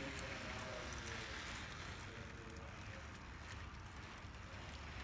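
Faint, indistinct voices of people talking in the background over a low, steady rumble of room noise.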